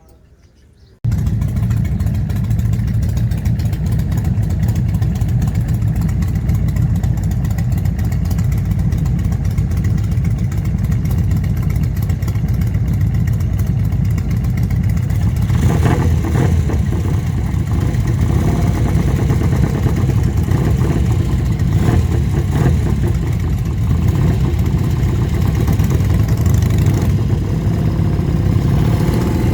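Harley-Davidson touring motorcycle's V-twin engine running steadily, coming in suddenly about a second in, with added higher noise from about sixteen seconds in.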